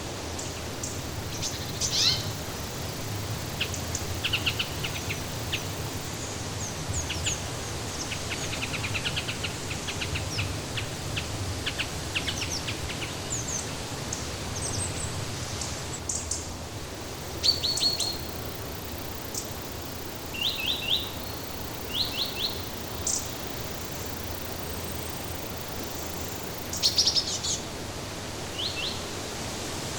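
Small birds chirping and calling in short, quick high notes, some in clusters of three or four falling chirps, over a steady rushing background noise.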